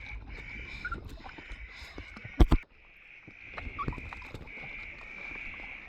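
Birds calling noisily: a steady high chirring with short chirps over it. Two sharp knocks come about two and a half seconds in, then the chirring drops out briefly before resuming.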